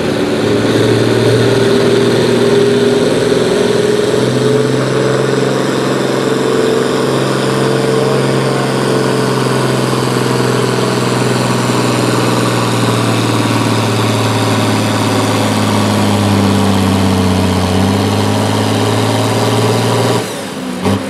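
Pulling tractor's engine running hard at steady high revs under heavy load, with a deep even drone. About twenty seconds in it drops off sharply as the run ends and the throttle is let off.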